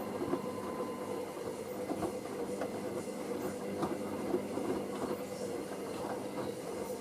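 Hoover SIX AAA160 front-loading washing machine turning its drum during a wash: a steady motor hum with irregular light knocks and clicks from the tumbling load.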